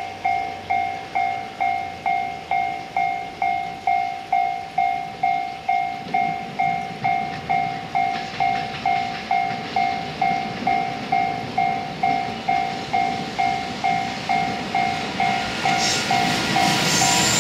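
Level-crossing warning bell dinging about twice a second while a container freight train hauled by an EF210 electric locomotive approaches, its rumble building. The locomotive passes close near the end, and the train noise rises to the loudest point.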